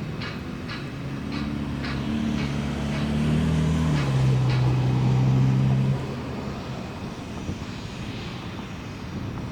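A low engine drone that grows louder over several seconds, drops in pitch about four seconds in, then falls away abruptly about six seconds in. Light, irregular knocks sound over it in the first half.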